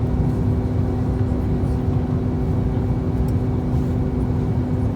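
Steady cabin noise of an Airbus A321-231 in flight, the rush of airflow and its IAE V2500 turbofans, with a constant two-tone hum running through it.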